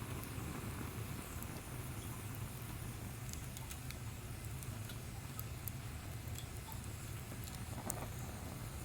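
Small wood fire crackling in a fire pit: sparse faint pops and ticks over a steady low hum.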